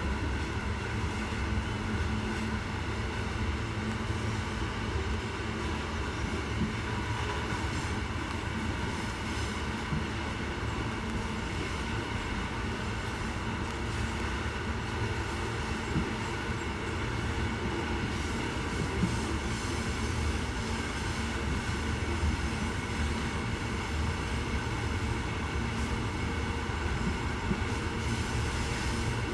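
Loaded iron ore train rolling past, a steady rumble of the wagons on the rails with a steady whine over it and a few clicks from the wheels.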